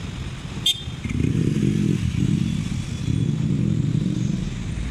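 A motor vehicle engine running low and close by for about three seconds, then fading, with a sharp click just before it comes in.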